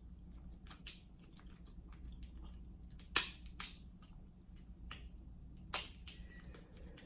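Close-miked eating of a king crab seafood boil: crab shell cracking in a few sharp snaps, the two loudest about three and six seconds in, among soft chewing.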